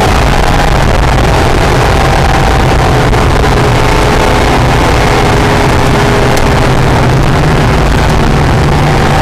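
Mid-engined V6 of a first-generation Acura NSX running at speed on track, its pitch fairly steady and shifting only slightly, under a constant rush of wind and road noise.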